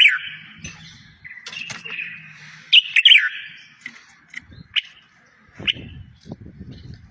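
Song of a small songbird: bursts of quick chirps and short downward-sweeping notes, densest at the start and around three seconds in, then single sparse notes. Low muffled rumbling sounds under it in the second half.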